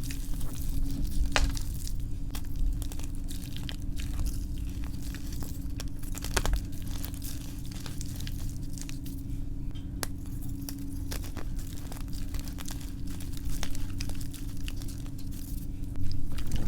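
Reformed gym chalk being crushed, sped up: a dense run of crisp crunches and crumbling crackles over a steady low hum.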